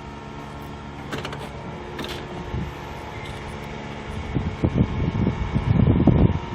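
A steady engine hum with a couple of clicks about one and two seconds in, then irregular low rumbling bursts over the last two seconds.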